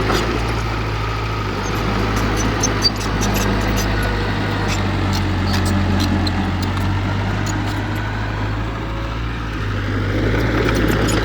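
Heavy earthmoving machine's diesel engine running steadily with a low drone, with scattered light clicks and clanks and one sharper knock about three seconds in.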